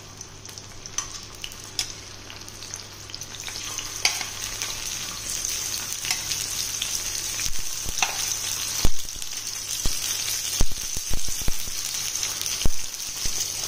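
Quartered tomatoes frying in hot oil on a tawa: a steady sizzle that grows louder a few seconds in, with sharp crackles and pops through the second half as the tomatoes soften.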